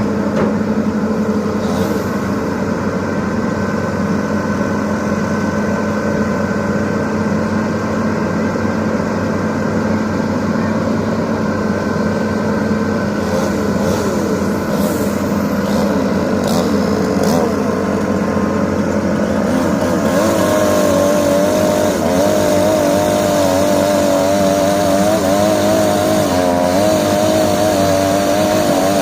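Excavator diesel engine running steadily. In the last third its note rises and wavers, as it does when the hydraulics work under load.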